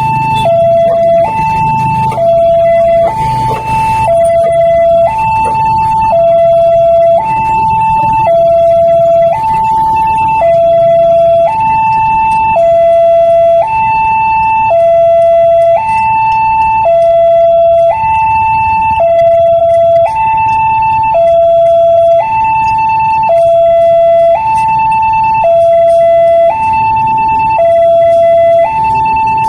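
Loud electronic two-tone warning alarm, alternating between a higher and a lower tone about once a second each, with a low rumble beneath.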